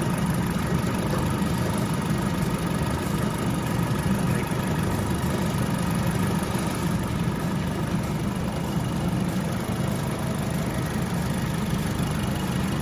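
Alfa Romeo Giulietta Quadrifoglio Verde's 1750 turbo four-cylinder idling steadily, with the air-conditioning running while its refrigerant is being checked and charged.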